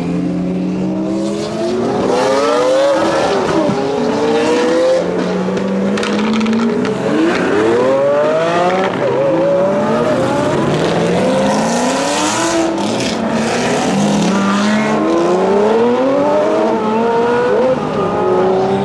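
Supercar engines accelerating hard through the gears: the engine note climbs in pitch, drops back at each upshift and climbs again, over and over.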